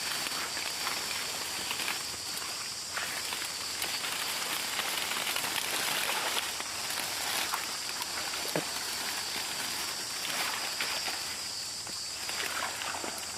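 Rustling and crackling of footsteps moving through undergrowth, over a steady high-pitched hiss.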